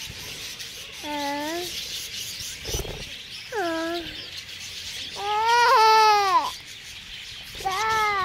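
A child's wordless voice making four drawn-out rising-and-falling cries, the loudest about five to six seconds in, with faint bird chirping behind.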